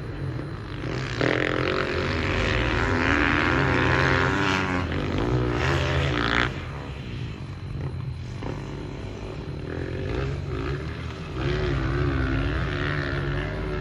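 An engine running with its pitch wavering up and down. It is loud for the first several seconds, eases off about six and a half seconds in, and picks up again near the end, over a low rumble.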